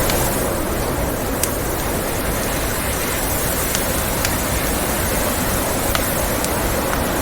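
Steady blizzard wind noise mixed with a crackling wood fire, with a handful of sharp pops scattered through.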